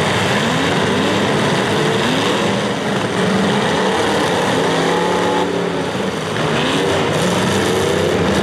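Several demolition derby cars' engines revving together in a continuous loud din, their pitches rising and falling as the drivers push on the throttle.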